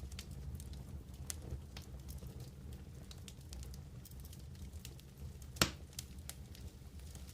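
Wood campfire crackling: scattered small snaps over a steady low rumble, with one loud pop about five and a half seconds in.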